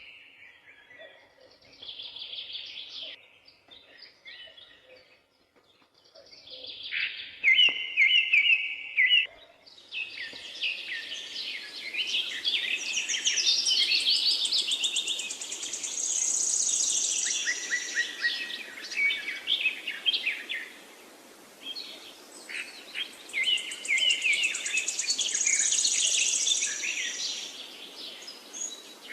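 Several songbirds singing, one repeating a short whistled phrase. About ten seconds in, a denser chorus of trills and chirps sets in over a steady background hiss.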